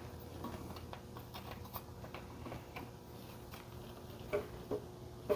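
Faint scattered clicks and light knocks of hands working at the oil fill plug of a small Briggs & Stratton mower engine to check the oil level, with a few louder ticks near the end over a low steady hum.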